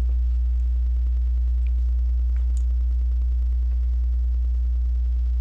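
Steady low electrical mains hum with a stack of overtones, with a few faint clicks of Lego pieces being handled.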